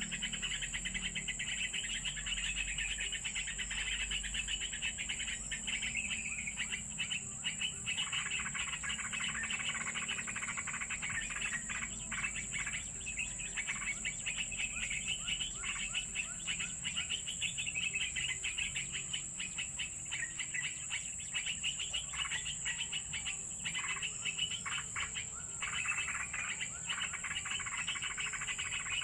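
Birds chirping in fast, dense twitters throughout, over a steady high-pitched insect drone.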